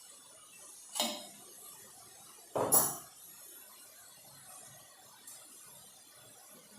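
Metal cookware clinking twice as the weight and the lid are taken off a covered biryani pot. The first clink is short, about a second in; the second, longer and louder, comes about a second and a half later.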